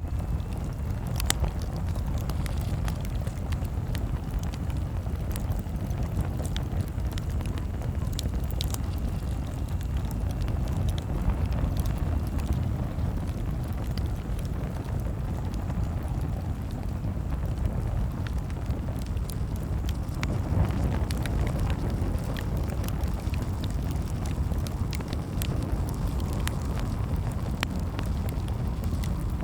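Campfire crackling: a steady low rumble of burning with many scattered sharp pops and snaps.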